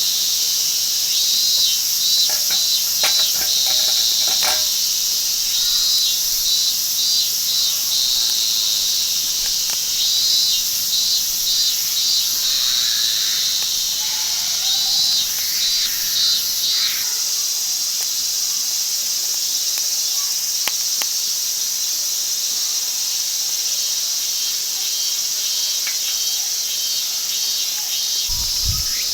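A chorus of insects trilling steadily and high-pitched, with a pulsing rhythm. A few light clicks come about two to four seconds in.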